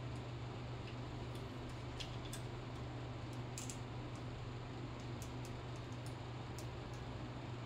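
Steady low hum with a few faint, scattered clicks and ticks.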